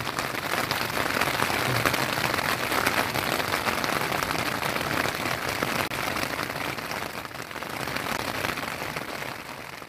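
Heavy rain falling steadily on a tarp flysheet, heard from underneath it as a dense, even hiss of drops on the fabric, easing slightly near the end.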